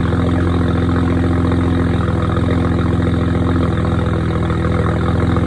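BMW 135i's turbocharged inline-six idling after a cold start, heard through a straight-through exhaust: catless downpipes with resonator and muffler deleted, only the factory secondary cats left. Steady exhaust drone, with the idle dropping a little about two-thirds of the way through.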